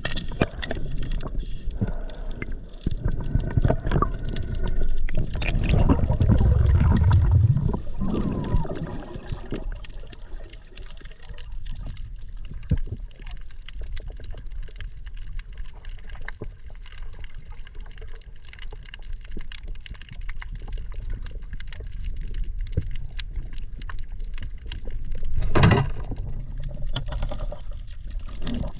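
Water gurgling and sloshing, with a loud low rush about six seconds in and a short sharp burst near the end.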